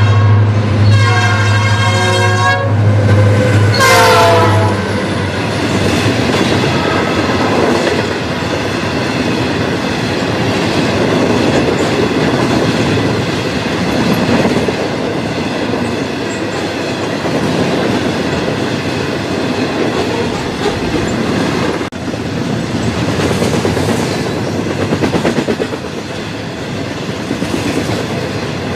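Norfolk Southern diesel freight locomotive sounding its horn chord in two blasts over a low drone, then a short final horn note that slides down in pitch as it passes, about four seconds in. After that, the steel-coil freight cars rush by with a steady rolling clatter of wheels on rail joints.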